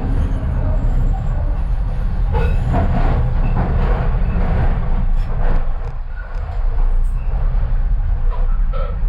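Docklands Light Railway train running on its rails, heard from inside the carriage: a loud, steady low rumble of wheels and running gear with scattered clicks and rattles.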